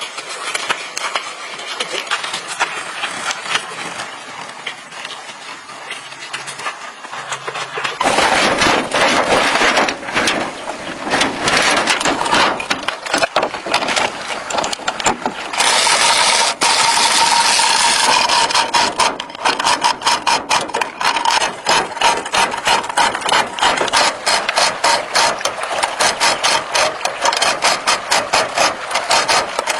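Workshop tool noise from motorcycle repair work, in several abrupt segments: rapid scraping and clicking strokes, later joined by a steady whine under quick rhythmic strokes.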